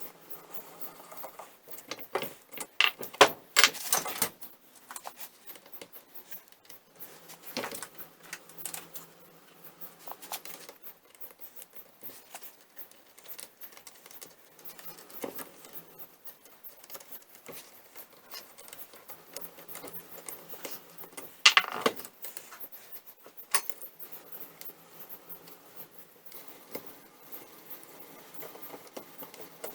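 Sporadic metal clinks and clunks of small steel parts being handled and set down, a few sharp knocks spread out with quiet gaps between them, the loudest about two-thirds of the way through.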